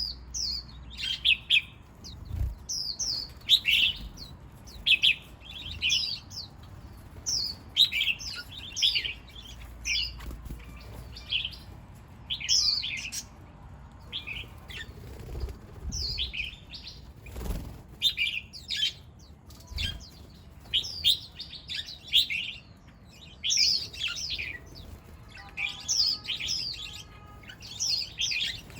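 Small garden birds chirping: short, sharp, descending chirps repeated about once a second, with a few low thumps among them.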